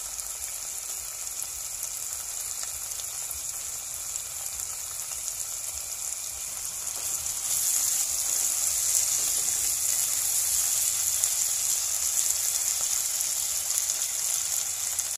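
Pork, peppers and shrimp paste frying in oil in a pan: a steady sizzle that gets louder about halfway through.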